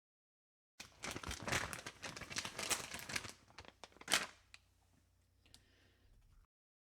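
Crinkling and crackling of something being handled, dense for about two and a half seconds and then thinning to a few scattered clicks, with one sharper crackle before it cuts off abruptly.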